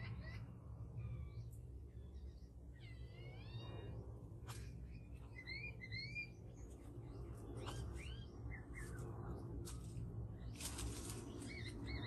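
Wild birds calling: a run of short whistled calls, including falling glides about three seconds in and pairs of rising whistles about five to six seconds in. A few sharp clicks and a burst of crackling come near the end, over a steady low rumble.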